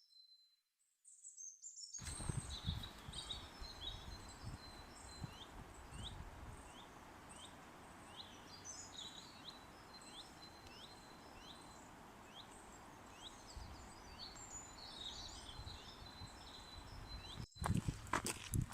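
Woodland birdsong over a steady outdoor hiss. Several birds are calling, one of them repeating a short chirp about twice a second. It begins after about two seconds of near silence, and near the end it cuts to louder irregular knocks.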